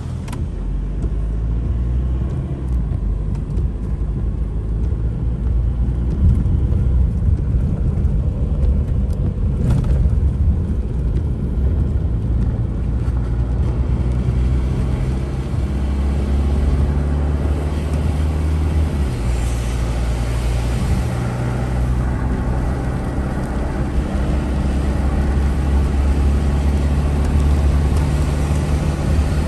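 A car's engine and road noise while driving, steady throughout, with the engine note changing pitch about nineteen seconds in.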